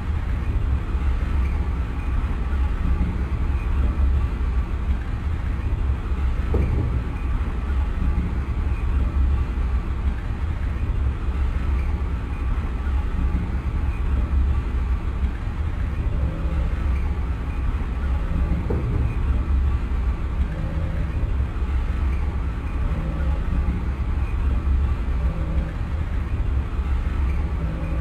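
Lisbon Metro ML90 train running, a steady low rumble with faint steady tones above it and two brief knocks from the train.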